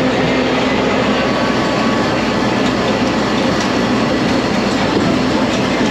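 A resort tram running steadily, heard from on board: a constant engine drone under a steady rushing noise.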